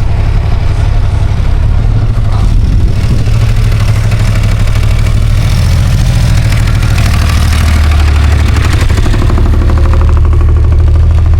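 An engine running steadily close by, a loud low rumble with a fine even pulse and no clear revving.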